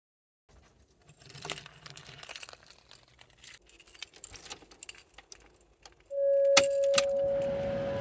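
Light metallic jingling and clicking, like keys being handled, for several seconds; then music comes in about six seconds in with a loud held note.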